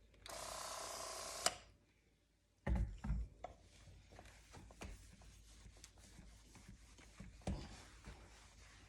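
A spray bottle hissing for about a second, ending with a click. After a short gap come a few dull bumps, then the soft, uneven rubbing of a microfibre cloth wiping a fridge's glass panel and stainless steel.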